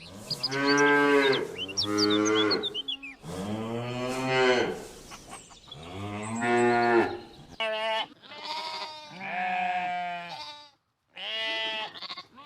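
Cow mooing about four times in long, low calls, then, after a cut about two-thirds of the way in, sheep bleating about three times in higher, quavering calls.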